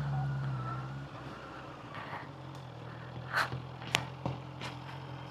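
Honda CBR motorcycle engine dropping back from a rev in the first second, then idling steadily. A few sharp clicks come about three and four seconds in.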